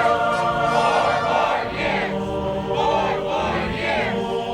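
Music with a choir singing, the voices holding sustained notes over a steady chordal backing.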